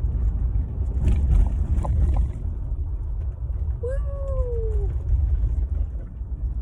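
Steady low road rumble inside a moving car's cabin, with a few light clicks in the first half. Near the middle comes a single meow-like call of about a second, rising briefly and then falling.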